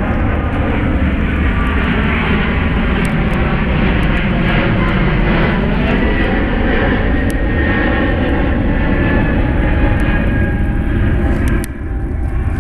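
Loud, steady drone of an aircraft engine passing overhead, its pitch bending slowly down and back as it goes. It drops off abruptly near the end, and a few faint sharp clicks sound over it.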